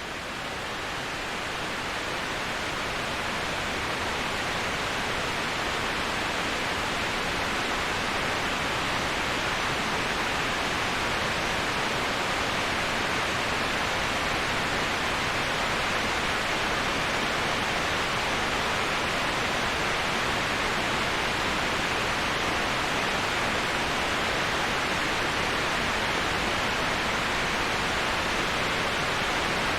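Steady, even rushing of a waterfall used as white noise, swelling up over the first few seconds and then holding level.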